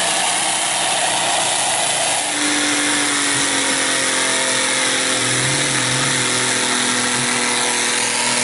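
Car engine held at high revs, a loud steady mechanical scream with a brief dip about two seconds in. The engine is being deliberately run to destruction with sugar and used cooking oil in it.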